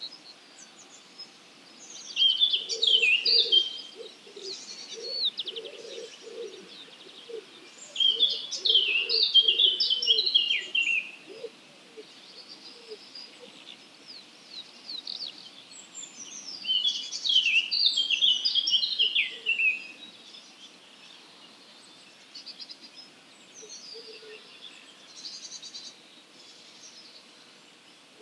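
Songbirds singing in a dawn chorus. One nearby bird sings three loud phrases of quick, varied notes, each lasting two to three seconds, with pauses of several seconds between them and fainter twittering from other birds in the gaps. A series of short low-pitched notes runs underneath during the first ten seconds.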